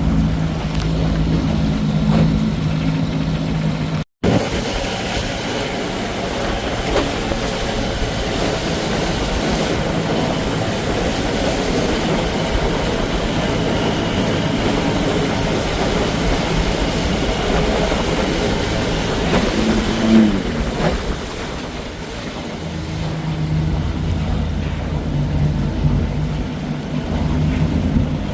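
Johnson 20 hp outboard motor running steadily under way, mixed with rushing wind and water noise. The engine hum sinks under the rushing for most of the middle and comes back clearly near the end. There is a split-second drop to silence about four seconds in, and a short falling whine about twenty seconds in.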